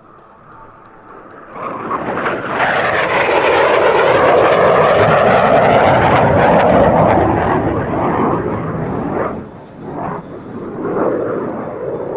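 F-5B Tiger's twin J85 turbojets in a low flyby: the jet noise swells over a couple of seconds, stays loud for several seconds with its pitch sliding as it passes, then drops away about nine seconds in.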